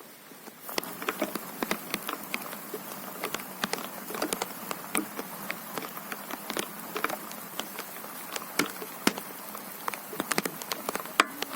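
Rain on a tent: a steady hiss with dense, irregular drops tapping sharply on the fabric, growing heavier just under a second in.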